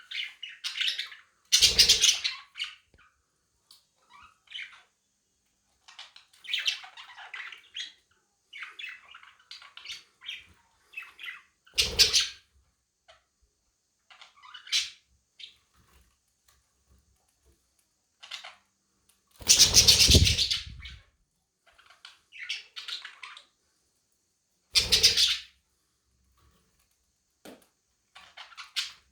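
Budgerigars squabbling: short, scattered chirps and chatter, broken by several loud, harsh squawks. The squawks are typical of one budgie warning off others that pester it.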